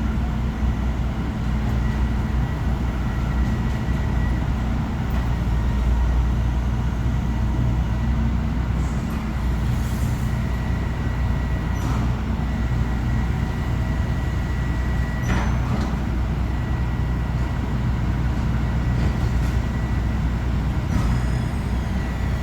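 Garbage truck's diesel engine running steadily, with a faint steady whine above it and a few short metallic clanks.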